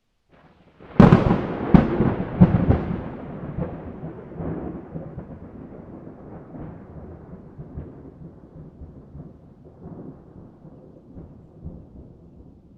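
A thunderclap: a sharp crack about a second in, a few more cracks close after, then a long rolling rumble that slowly fades.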